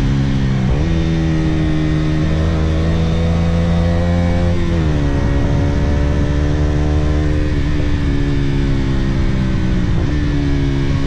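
Sport motorcycle engine running under way with a steady pitch that changes in steps: it drops about a second in, rises sharply around the middle and then sags slowly, and drops again near the end, as revs change through gear shifts and throttle.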